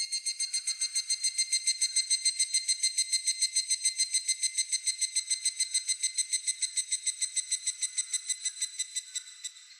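Higurashi (evening cicada) singing its ringing 'kana-kana-kana' call: a fast, even string of metallic, whistle-like pulses that eases off near the end.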